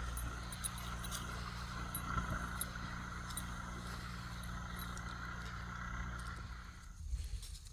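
Boat engine running steadily, with a steady high whine above its low hum; it cuts off abruptly about seven seconds in.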